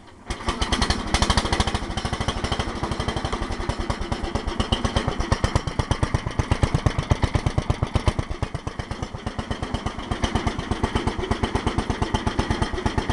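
A 16-horsepower Briggs & Stratton engine on a 1973 Wizard hydrostatic garden tractor catches just after the start and then runs steadily with an even, rapid putter. It is running well, its ignition points freshly cleaned.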